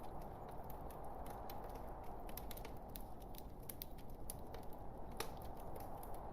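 Wood logs burning in a fireplace, crackling: irregular small pops over a steady low rush of the fire, with one sharper pop about five seconds in.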